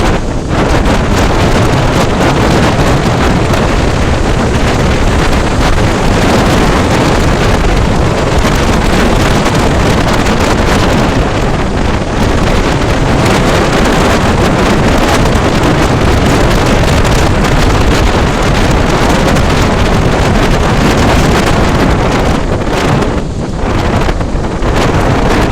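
Loud, steady wind rushing over the microphone of a motorcycle riding at speed, with the vehicle's running noise underneath.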